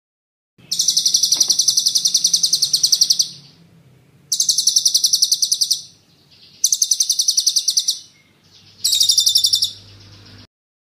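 Songbird singing four bursts of a rapid rolling trill, evenly repeated high notes about ten a second. The first burst lasts about two and a half seconds and the later ones are shorter.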